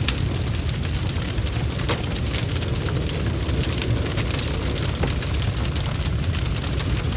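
Wood fire crackling: frequent sharp snaps and pops over a low, steady rumble of the flames.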